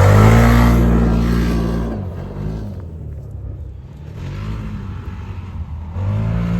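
A side-by-side UTV launching at full throttle: its engine jumps to a high rev, pulls hard for about two seconds, then fades as it moves away. The engine swells loudly again near the end as it accelerates back.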